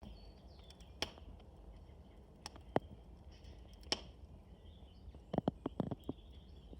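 Campfire burning, its wood crackling with sharp, irregular pops, a quick run of them about five seconds in.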